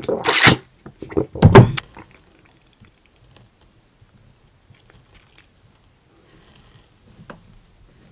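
Close-miked eating sounds: two loud bursts of biting and chewing candy in the first two seconds, then only faint small clicks.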